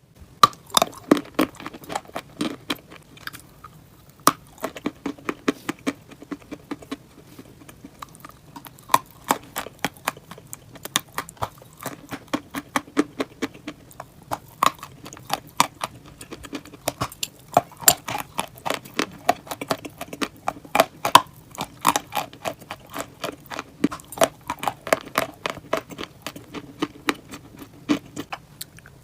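Close-miked biting and chewing of hard, brittle chalk-like lumps: rapid, irregular sharp crunches in clusters, with short lulls between bites.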